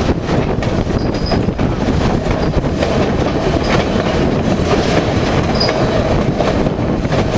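White Pass & Yukon Route narrow-gauge train rolling along the track with a steady rumble and clatter of wheels on rails. There are short high wheel squeals about a second in and again past the middle.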